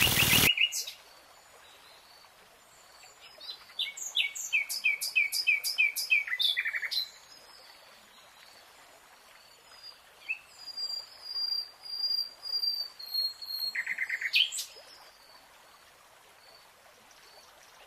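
Small birds chirping in two bouts: a fast run of repeated short notes with thin high whistles, then scattered chirps a few seconds later. A loud noise close to the microphone cuts off about half a second in.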